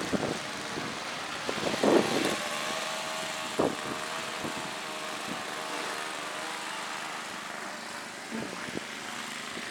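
A snow blower's engine running steadily, with a couple of brief louder sounds in the first few seconds.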